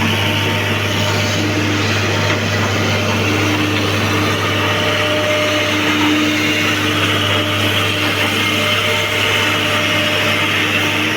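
Excavator's diesel engine running steadily, a constant low hum with a few faint held tones above it.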